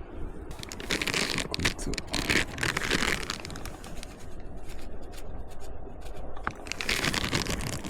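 Irregular crinkling and scraping handling noises with scattered sharp clicks.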